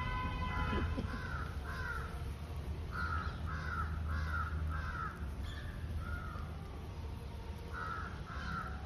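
A crow cawing again and again in short runs of calls, with a few pauses between runs, over a steady low rumble.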